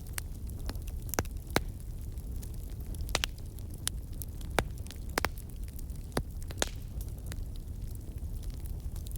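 Wood campfire crackling, with irregular sharp pops and snaps, a few louder ones, over a steady low rumble.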